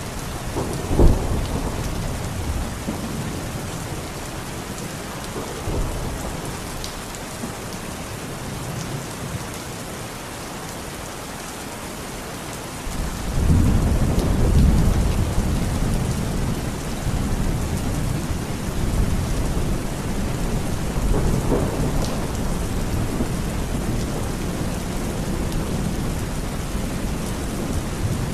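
Steady rain falling in an even hiss, with a sharp clap of thunder about a second in. About halfway through, a long low rumble of thunder starts suddenly, then swells and rolls on.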